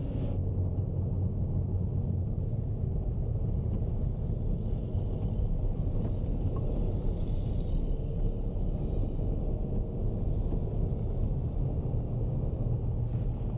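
Car driving on a snow-covered, unploughed road: a steady low rumble of engine and tyres.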